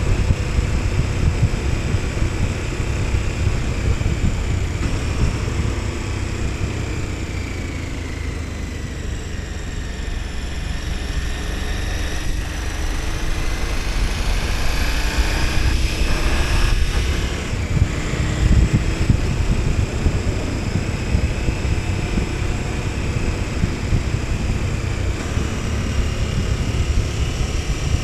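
KTM 1290 Super Adventure S's V-twin engine running under way with heavy wind rumble on the microphone. The engine note falls slowly for several seconds, then climbs again.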